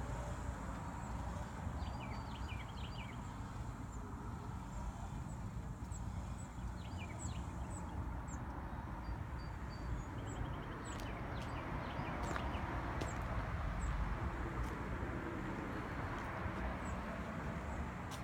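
Small birds chirping repeatedly in short notes over a steady low outdoor rumble.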